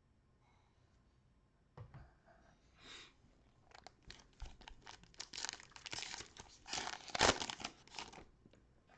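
Plastic cello wrapper of a trading-card pack being torn open and crinkled, an irregular crackling that starts about two seconds in and is loudest near the end.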